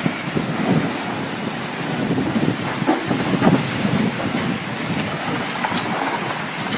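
Wind buffeting the microphone over rough water: a steady rushing noise with irregular low gusts.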